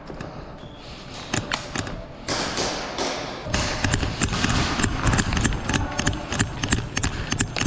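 Irregular taps and thumps of an indoor airsoft game, becoming a denser clatter from about three and a half seconds in.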